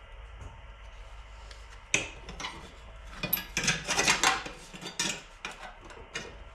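Hand tools clanking and scraping against the steel of an old car's sub rail while a spot-welded joint is worked loose: a quiet start, a sharp metallic knock about two seconds in, then a run of irregular clanks and scrapes.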